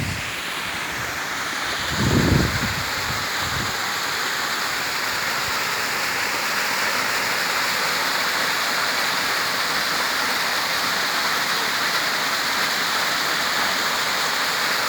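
Waterfall rushing steadily, a dense even roar of falling water. A brief low thump comes about two seconds in.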